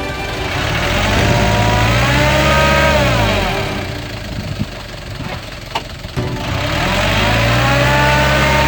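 Truck engine revving in two pulls: the pitch climbs and holds, drops about three seconds in, then climbs and holds again from about six and a half seconds in.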